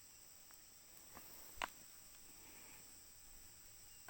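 Near silence with a faint, steady high-pitched chirring of insects such as crickets, broken by one sharp click about one and a half seconds in.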